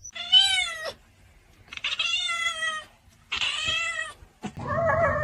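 A domestic cat meowing: three drawn-out meows about a second apart, then a lower-pitched call near the end.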